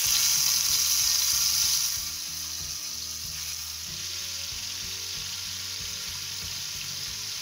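Marinated tandoori chicken pieces going into hot oil in a frying pan and sizzling: the sizzle starts suddenly, is loudest for the first two seconds, then settles to a steady shallow-fry sizzle.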